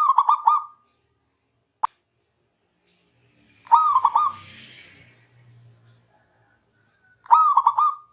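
Zebra dove (perkutut) cooing: three short rolling phrases of quick repeated notes, about three and a half seconds apart. A single sharp click falls between the first two phrases.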